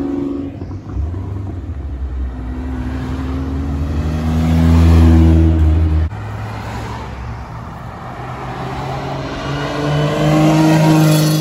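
Car engines accelerating past one after another as cars pull away from an Italian car show, in clips that are cut together. The sound breaks off abruptly about six seconds in. It is loudest around five seconds in and again near the end, as a red Lamborghini Miura's V12 pulls past.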